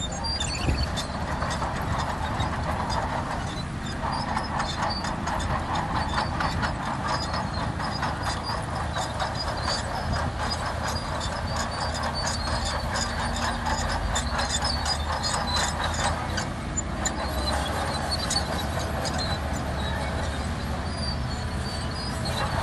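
Steel crawler tracks of a Shantui DH17C2 bulldozer clanking and squeaking as it moves, over the steady low running of its diesel engine.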